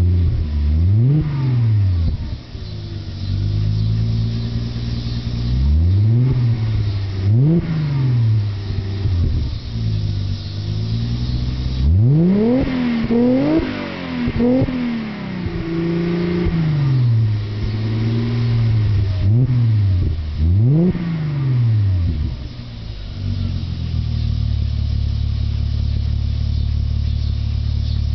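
Audi A6 2.8-litre 30-valve V6 with the center resonator removed and Remus mufflers, revved in a series of quick throttle blips. Each blip's pitch rises and falls straight back, some in rapid succession, then the engine settles to a steady idle for the last few seconds.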